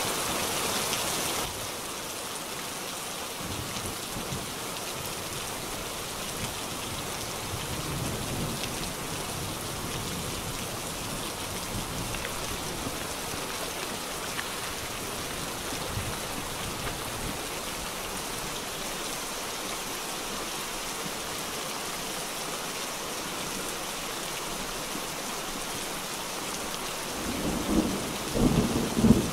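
Heavy rain falling steadily on water and grass, heard through a GoPro's built-in microphone. A louder low rumbling comes in near the end.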